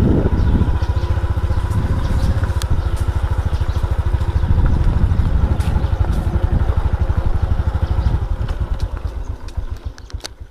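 Strong wind buffeting the microphone: a loud, fluttering low rumble that eases off near the end.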